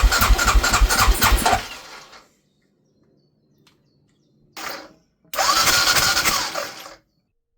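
Aprilia Pegaso 650's single-cylinder engine on starting attempts: it turns over and fires with a heavy pulsing, then fades out about two seconds in; after a pause a short burst and a second attempt of about a second and a half that cuts off. It starts but won't keep running, a carburettor diaphragm that isn't moving freely is starving it of fuel.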